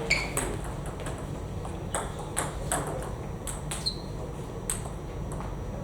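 Celluloid-type plastic table tennis ball clicking against bats and table, about ten sharp ticks at uneven intervals, some with a short ringing ping, over steady hall hum.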